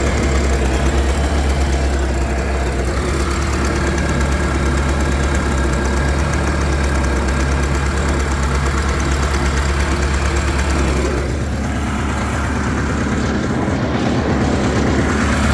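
Jet boat engine idling steadily out of the water with a strong low drone and fast even pulsing; it is still cold during carburetor tuning.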